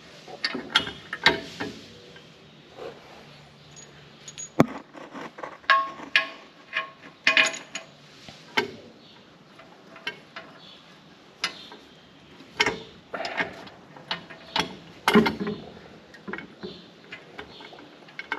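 Irregular metal clinks, taps and knocks of bolts and hand tools as bolts are worked into the holes of a tractor loader mount.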